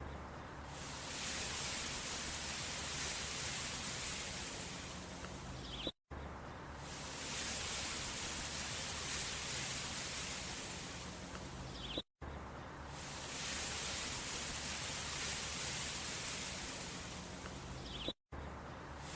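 Heavy rain and strong wind making a steady hiss, as a loop about six seconds long that drops out to silence for an instant three times.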